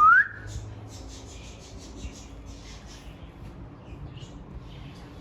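A single short whistle rising in pitch at the start, followed by faint, scattered scratching and rustling.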